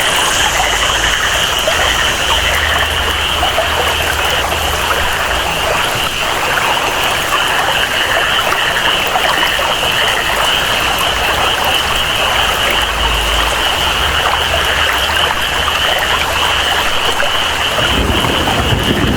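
Tropical rainforest ambience: steady rainfall and flowing water under a continuous high-pitched chorus of jungle animals. A low rumble comes in near the end.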